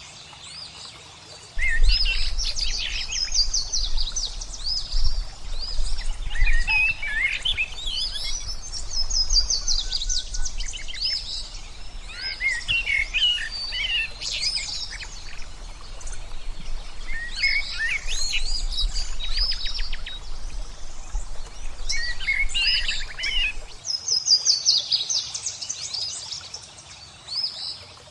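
Several songbirds singing and chirping in a mixed chorus, with fast trills and warbled phrases overlapping. A low steady rumble comes in about a second and a half in and stops near the end.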